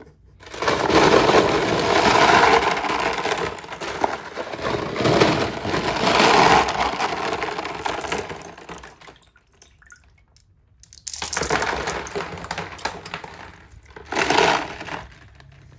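Water rushing down a wooden marble-run chute with marbles rattling along it, in one long stretch of about nine seconds, then two shorter surges near the end.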